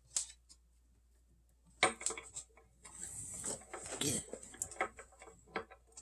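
Cutlery clinking and scraping against a dish of food: a single click at the start, then a busy run of short knocks and scrapes from about two seconds in until near the end.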